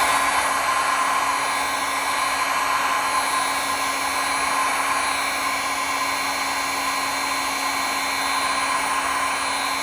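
Heat gun running steadily on its high setting: a steady rush of blown air with a steady whine from the fan motor.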